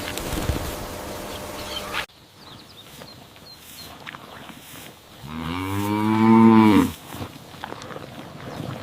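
A cow mooing once: a single long, low moo of nearly two seconds, starting about five seconds in, its pitch rising a little and then falling. Before it, a steady rushing noise cuts off abruptly about two seconds in.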